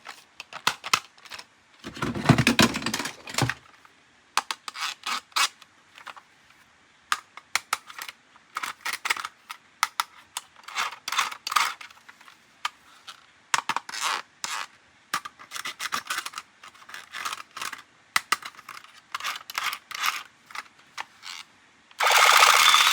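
Plastic toy parts and packaging being handled during an unboxing: irregular clicks, scrapes and crinkles, with a louder rustle a couple of seconds in. A loud steady rattling noise starts near the end.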